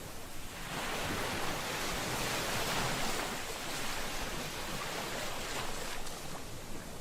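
Ocean waves washing on a shore: one wave's rush swells about half a second in, holds for several seconds, and draws back near the end.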